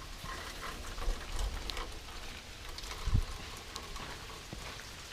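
Light rain falling, with scattered drops ticking on surfaces, as the first rain of a hurricane comes down. A single low thump comes about three seconds in.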